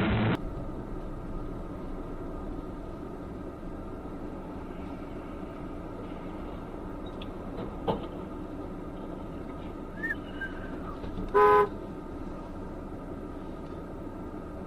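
Steady road traffic noise, with one short vehicle horn toot about eleven seconds in, the loudest sound.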